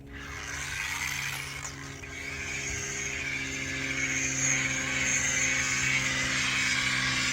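An electric rotary buffer runs steadily, polishing wet-sanded clear coat on a car fender: a steady hum under a hiss that switches on abruptly at the start.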